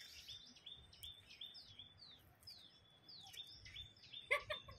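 Birds chirping in the trees: many short high chirps repeating over and over, with a few quick falling notes about two to three seconds in. A short, louder call comes near the end.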